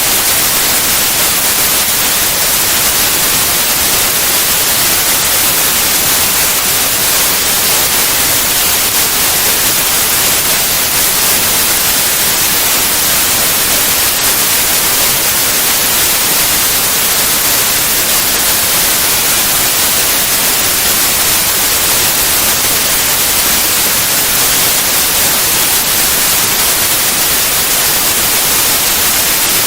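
Steady white noise: an even, unchanging hiss spread across all pitches, strongest in the treble.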